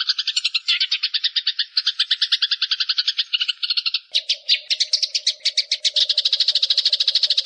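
Eurasian tree sparrows squabbling: rapid, unbroken chattering chirps, about ten a second, high-pitched. About four seconds in the chatter changes pace and a steady low hum joins it.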